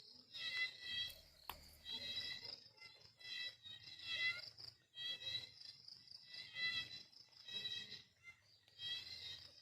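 Night insects such as crickets chirping: a steady high trill with a louder pulsed chirp repeating about once a second.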